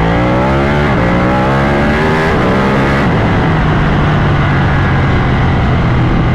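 Ducati motorcycle engine accelerating: it climbs in pitch, changes gear about a second in, climbs again, then eases off about two to three seconds in and settles into a steady cruise.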